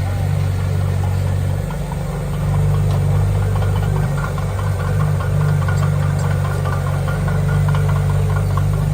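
Diesel engine of heavy earthmoving machinery running steadily with a low drone, growing slightly louder about two and a half seconds in.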